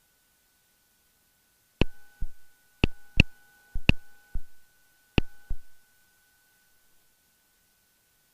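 Four pairs of sharp clicks, each pair about half a second apart, heard through a headset intercom feed over a faint steady electronic tone; a second, lower tone joins while the clicks happen.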